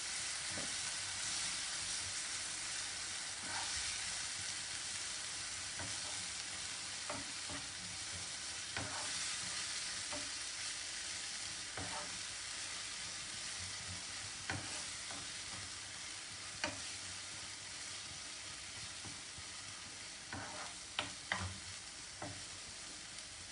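Onion, garlic and spice masala with freshly added chopped tomatoes sizzling in hot oil in a pan, the sizzle slowly dying down. A stirring spoon knocks against the pan every second or so, a few times louder near the end.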